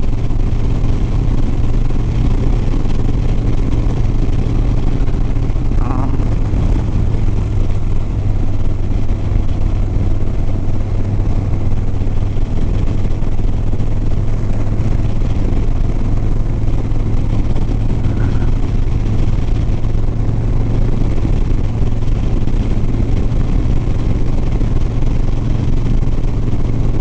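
Harley-Davidson Sport Glide's V-twin engine running at a steady cruise, a constant low drone under an even rush of wind noise.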